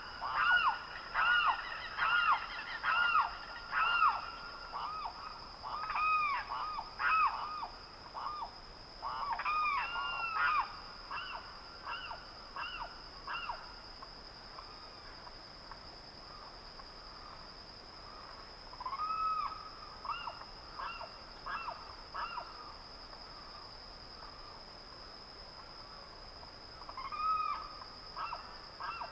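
Birds calling at dawn: a fast run of short, repeated rising-and-falling calls, about two a second, that thins after about fourteen seconds into scattered calls. A steady high whine runs underneath.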